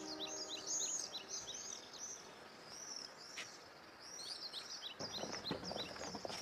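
Small birds chirping, many short rising-and-falling calls in quick succession. Footsteps begin about five seconds in.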